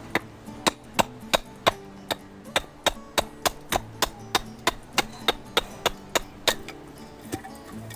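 Firewood being split: about twenty sharp wooden knocks at roughly three a second, pausing near the end for one last strike.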